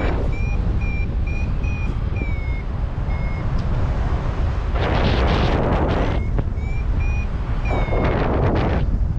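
Paragliding variometer beeping in short, repeated high tones, a few a second, the climb signal of a glider rising in lift. Heavy wind rumble on the microphone runs underneath, with two louder rushes of wind about five and eight seconds in.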